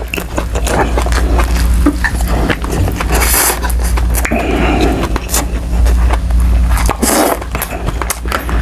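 Close-miked chewing of soft, saucy tuna roe adobo: a steady run of wet mouth clicks and smacks, with two hissy noises about three and seven seconds in.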